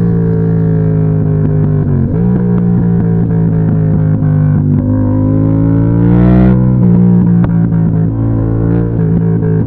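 Yamaha MT-07's CP2 parallel-twin engine running hard under load. Its pitch dips and recovers about two seconds in, then climbs steadily and falls off sharply about two-thirds of the way through, as at a gear change.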